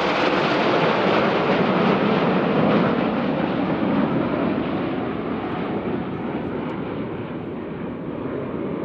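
Military jet engine noise after a pass, a steady rush that slowly fades and grows duller as the jet draws away.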